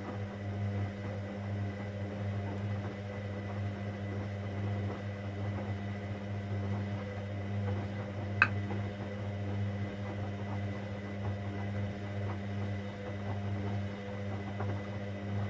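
Hoover Dynamic Next washing machine running on its cotton 60 programme: a steady low electric hum, with one sharp click a little past halfway.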